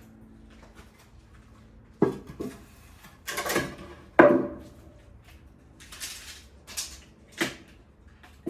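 Irregular knocks, clatters and scrapes of timber pieces and hand tools being picked up and set down on a work surface. There is a sharp knock about two seconds in, the loudest knock with a brief ringing about four seconds in, and a last knock near the end.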